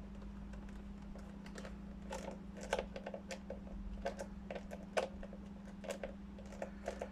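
Small irregular clicks and taps of a triangular screwdriver and tools being handled while a screw is taken out of a steam iron's plastic back cover, over a steady low hum.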